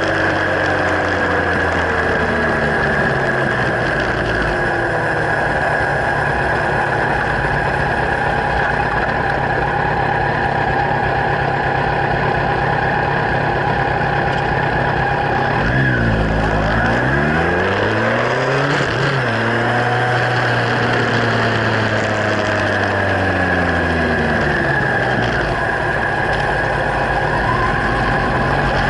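Kawasaki Z1000's inline-four engine through LeoVince slip-on exhausts, running continuously with its pitch changing: it falls off early on, drops sharply and climbs again twice about halfway through, holds steady for a few seconds, then falls away.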